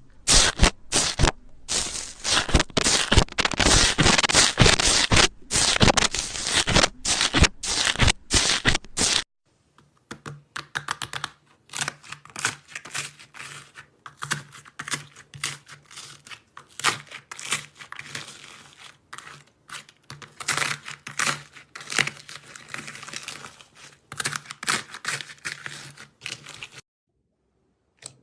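Slime being squeezed and kneaded by hand, a dense run of crackling, popping clicks. About nine seconds in it cuts off and gives way to a quieter stretch of the same clicking over a faint low hum.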